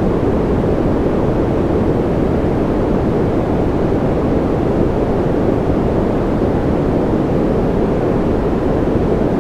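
Steady synthetic noise for sleep, a constant even rush with no rhythm or change. It is heavy in the low and middle range and fades in the highs.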